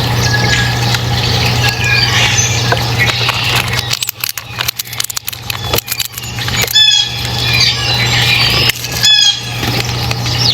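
Small birds chirping busily over a steady low hum, with a run of sharp clicks near the middle and two loud, rapid squeaky calls near the end.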